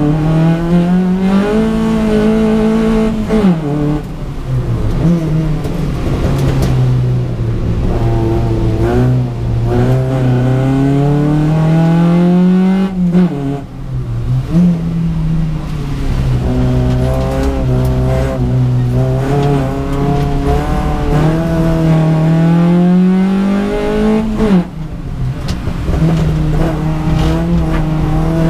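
Rally car's engine heard from inside the cabin, driven hard on a special stage. Its pitch climbs steadily under acceleration, then drops sharply at each gear change, three of them clear, with a short dip where the sound thins out about halfway through.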